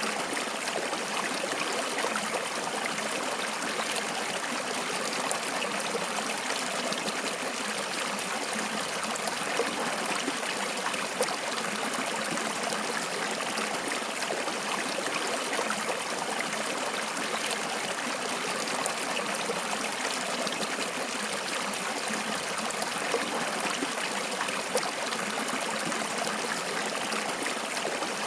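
Water flowing steadily, a continuous trickling rush with a few brief louder moments.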